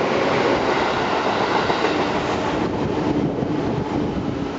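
Seibu Railway 2000 series electric train running through a station at speed without stopping: steady rumble and clatter of wheels on the rails, easing off about three seconds in as the last car goes by.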